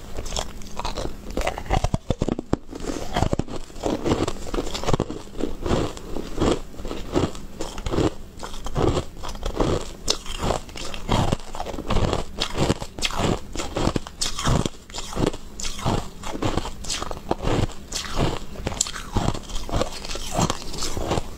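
Close-up crunching and chewing of hard, frosty white balls: a steady run of crisp crunches, about two strong ones a second, as each ball is bitten and chewed.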